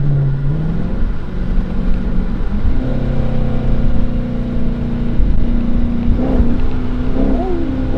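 Straight-piped Hemi V8 of a 2022 Chrysler 300 S accelerating hard: the exhaust note climbs in pitch about half a second in, steps up again near three seconds and then holds at higher revs. Short whoops from the occupants sound about six and seven seconds in.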